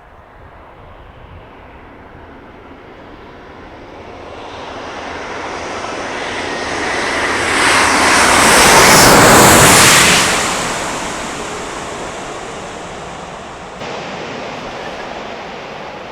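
Jet airliner passing low overhead: its engine noise builds steadily for several seconds, is loudest and most hissing about nine seconds in, then falls away quickly, with a small rise again near the end.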